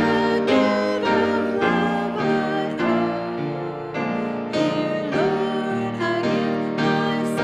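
A hymn sung by a congregation, with piano accompaniment, in a slow, steady chordal setting.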